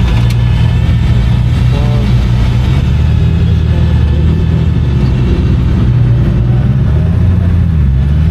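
A car engine running loud and close, its low hum shifting slightly in pitch near the end.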